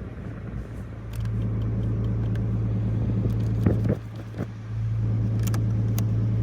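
BMW G82 M4 Competition's twin-turbo straight-six engine heard from inside the cabin, running at a steady engine speed as a low, even drone that grows louder about a second in. The drone drops away briefly around four seconds in and then returns, with scattered small clicks over it.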